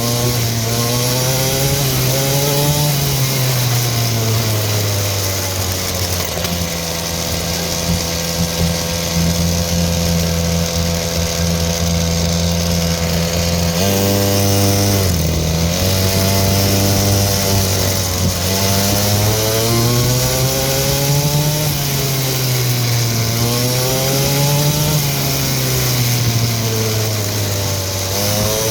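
Small dirt bike engine running under way, its pitch rising and falling as the throttle is worked. It holds steady for several seconds in the middle and dips sharply about halfway through, over a steady hiss.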